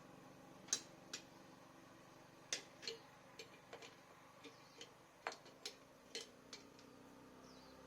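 Irregular sharp clicks and light taps, about a dozen of them, from hand work on the motor and its parts, over a faint steady hum.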